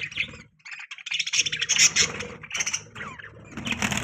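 Pet budgerigars chirping and chattering in quick, irregular bursts of high calls.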